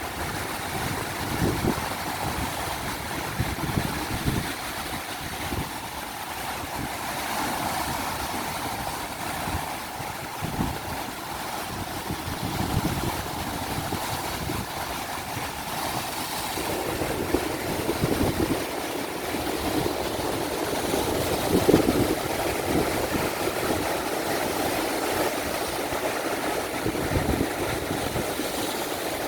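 Surf washing on a beach under strong wind, with gusts rumbling on the microphone.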